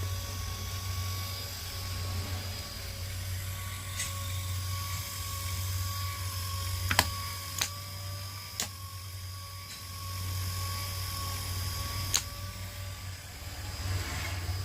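A car AC compressor's electromagnetic clutch hums steadily while about five sharp mechanical clicks sound, the loudest about seven seconds in. The clicks fit the clutch plate snapping in and out as the electromagnet is switched.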